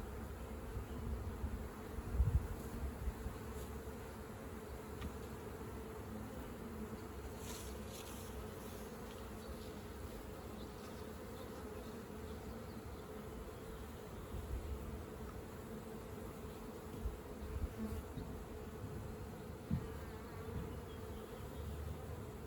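Many honeybees buzzing in a steady hum around an open hive, with a few low thumps about two seconds in and again near the end.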